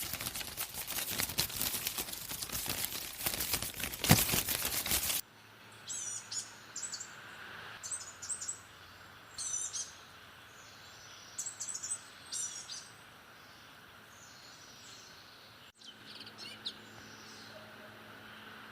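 About five seconds of loud, crackling noise cuts off abruptly. It gives way to a quiet outdoor background with short, high bird chirps every second or two.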